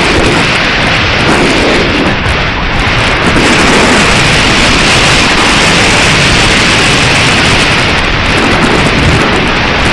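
Strong wind buffeting the microphone: loud, continuous noise with an uneven, gusty low rumble.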